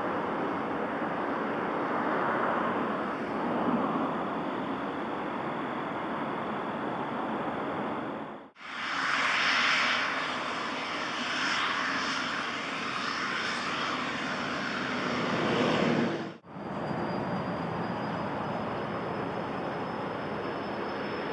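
Aircraft engines running: a steady, noisy engine rush that breaks off abruptly twice and resumes, the middle stretch brighter and more hissing.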